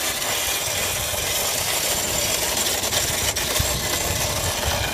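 Steady rushing, rolling noise of a bicycle coasting fast downhill over a rough, muddy track.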